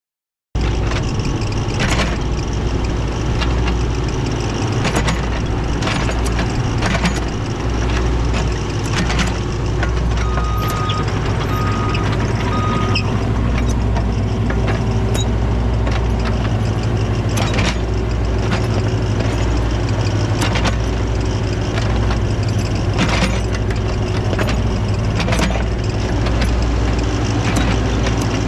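Caterpillar excavator's diesel engine running steadily, with repeated metallic clanks from the machine as it works, and three short beeps about ten to thirteen seconds in.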